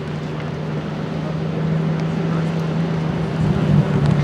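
Supercar engine running steadily at low revs with a deep, even hum, growing louder and briefly rising in pitch near the end.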